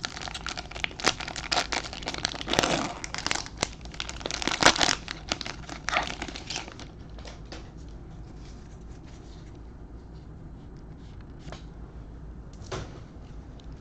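Plastic wrapper of a trading card fat pack crinkling as it is torn open and pulled off the cards, for about seven seconds. After that only a few faint ticks as the cards are handled.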